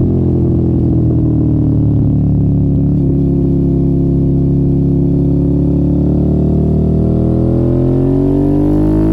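Motorcycle engine with an aftermarket exhaust, running continuously: its note sinks slowly for several seconds as the revs drop, then climbs again near the end as the bike accelerates.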